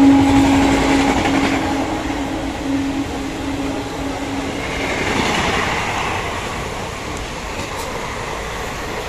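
Train horn held, then cutting off about four and a half seconds in, over the rumble and clatter of an express train's coaches passing at speed on the next track. The coaches keep rolling by after the horn stops.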